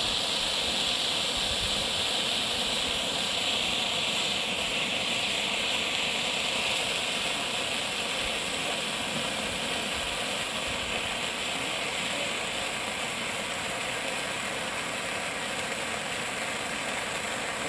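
A row of Bengal flame fireworks burning with a steady fizzing hiss, slightly stronger in the first few seconds before easing a little.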